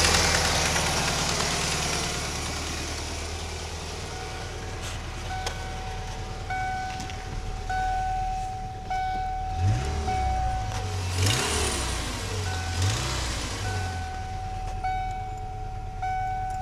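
Hissing from the 1992 Ford Ranger's 2.3 engine fading away over the first few seconds, then the truck's warning chime beeping steadily about once a second.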